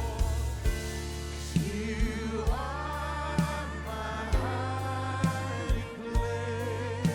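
Worship music: a group of singers holding long sung notes over steady bass and a regular drum beat.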